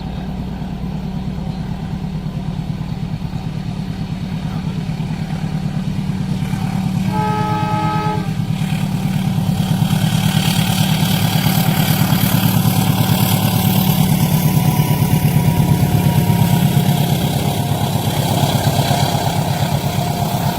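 Diesel train at a level crossing: the horn sounds once about seven seconds in, held for about a second, over a low pulsing engine drone. Then the rumble and wheel noise of the passing train build up, loudest a little past the middle, and ease slightly near the end.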